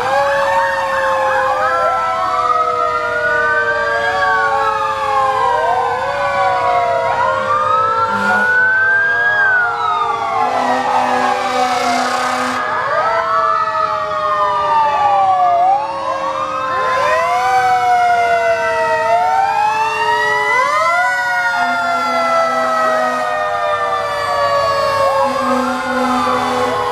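Several fire engine sirens wailing together and overlapping, each winding up quickly in pitch and then falling slowly, over and over. A short low steady tone sounds briefly three times.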